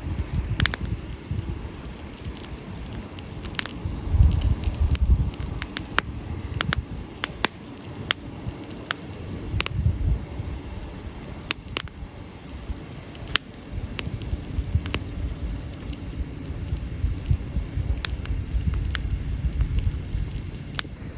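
Wood campfire crackling, with frequent sharp, irregular pops and snaps. Underneath runs a low rumble that swells about four seconds in, again around ten seconds, and near the end.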